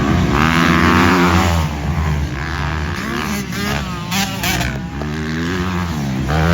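Motocross dirt bike engines revving, the pitch repeatedly rising and falling, with more than one engine overlapping.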